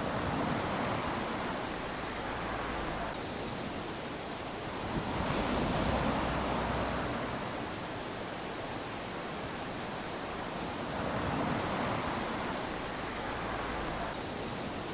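Small waves lapping onto a sandy beach, each swell of surf breaking and washing up the sand, then drawing back, about every five to six seconds: three swells.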